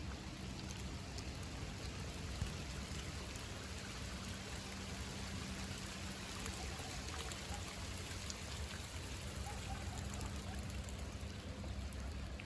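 Light rain falling: a steady hiss with scattered faint drop ticks.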